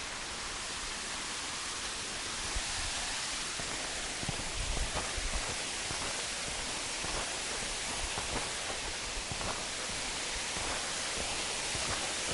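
Waterfall: a steady rush of falling water that gets a little louder about two seconds in.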